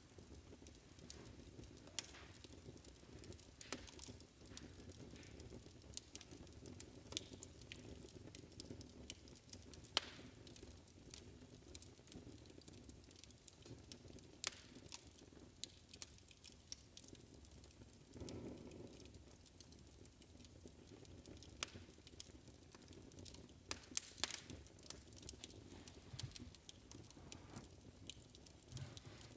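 Faint wood fire crackling in a fireplace: irregular pops and snaps over a steady low rumble of the flames.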